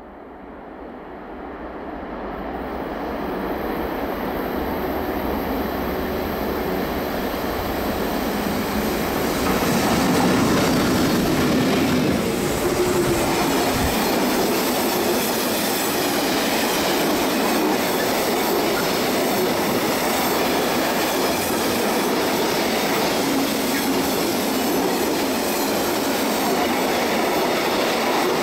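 Train running on the Semmering railway: its wheel and rail noise grows over about the first ten seconds, then holds steady and loud through the rest.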